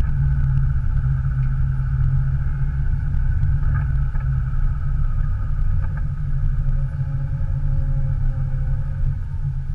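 Subaru Impreza's 1.8-litre naturally aspirated flat-four engine running steadily as the car rolls at low speed, heard from inside the cabin.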